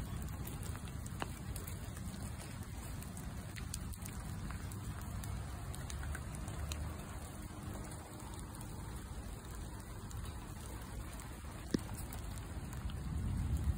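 Steady rain falling, with scattered drops ticking and one sharper tick near the end.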